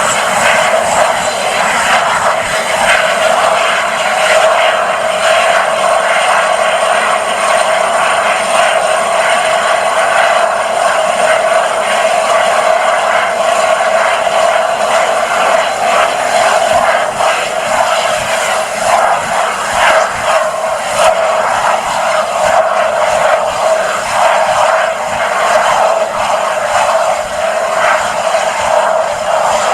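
Oxygen cylinder in a campfire venting gas: a loud, steady hissing roar with a held whistling note.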